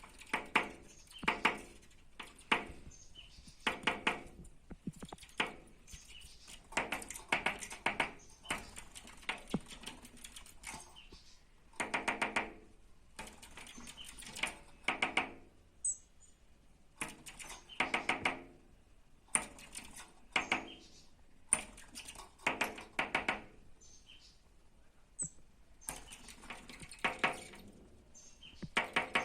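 A bird tapping in short, rapid bursts, about one burst every second or two, with a few brief high chirps between them.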